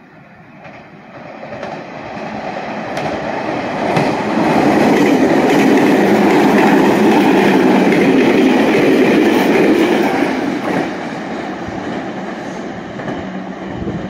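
A Meitetsu electric train passes through the station at speed without stopping. Its running noise builds over the first few seconds, is loudest as the cars rush by, then fades as it moves away, with clicks of the wheels over rail joints.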